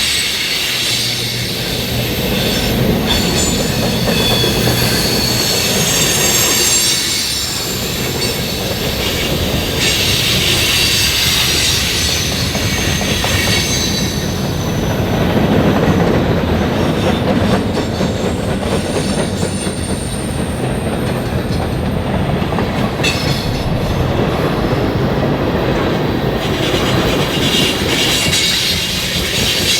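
Train rolling past, a steady rumble of wheels on rail with high-pitched wheel squeal through the first half and again near the end.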